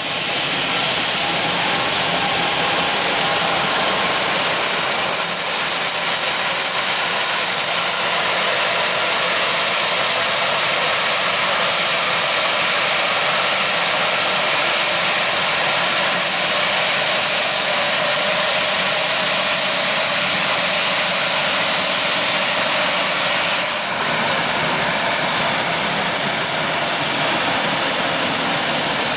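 Heavy diesel farm machinery working a corn harvest: combine and tractor engines running steadily under load, with a dense hiss of machine noise and a brief dip in loudness about three quarters of the way through.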